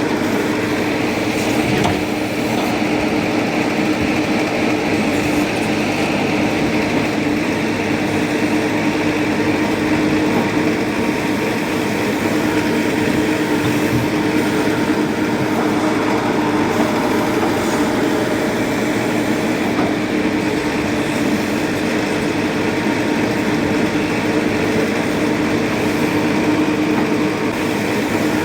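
Heavy diesel engine running steadily with a constant hum, with no breaks or sharp impacts.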